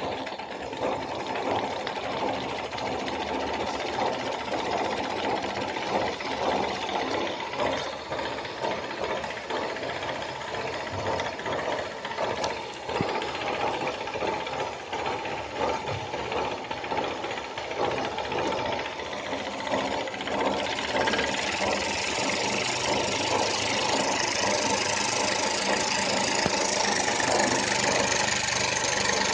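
Homemade steam engine running at speed with a rapid, even clatter. It gets louder about two-thirds of the way through.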